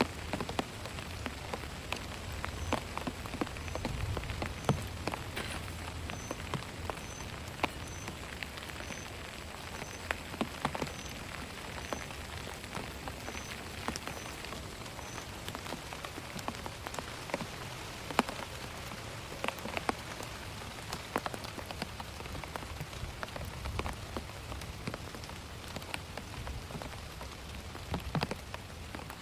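Steady heavy rain with many sharp drop impacts close by. Through the first half there is a faint high peep repeating about twice a second.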